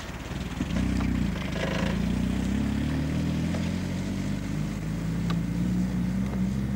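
Off-road 4x4 engine running under steady load at low revs, getting louder about a second in and then holding with a slight waver in pitch.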